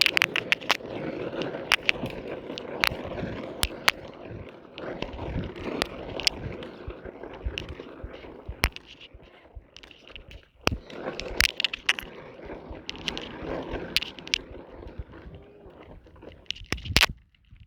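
Plastic wheels of a child's ride-on toy tractor rolling over rough ground, a steady crunching and scraping broken by many sharp clicks and knocks.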